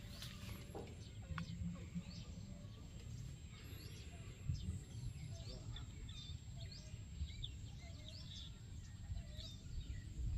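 Small birds chirping in the trees: many short, quick high chirps scattered throughout, over a steady low rumble.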